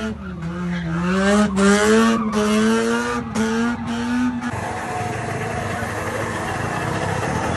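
Mazda RX-8 engine revving high during donuts, its note wavering and breaking off briefly several times, with tyre squeal. About four and a half seconds in it changes to a steadier rushing noise of spinning tyres and engine from a small hatchback's smoky burnout.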